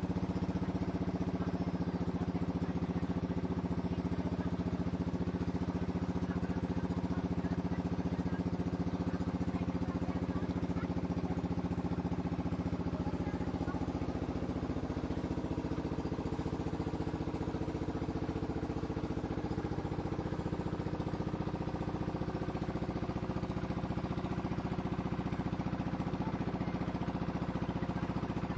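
A river boat's engine running steadily, its pitch shifting slightly about halfway through.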